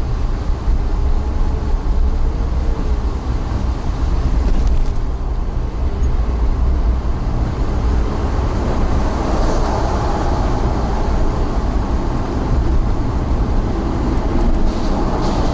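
Steady low rumble of a moving vehicle, with a faint wavering engine note above it.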